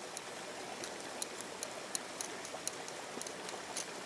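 Steady rush of river water, with scattered short, sharp high clicks on top of it at irregular intervals.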